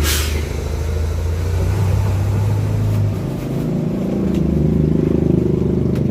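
A motor vehicle's engine running close by, a low rumble that fades about three seconds in, with a brief hiss at the very start.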